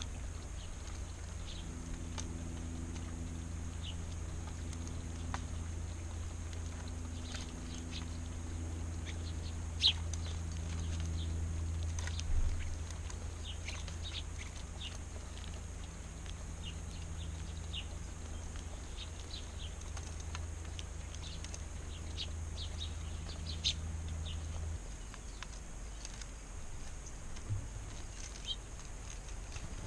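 Small wild birds chirping, short high calls scattered irregularly and sometimes in quick runs, over a steady low hum that drops away near the end.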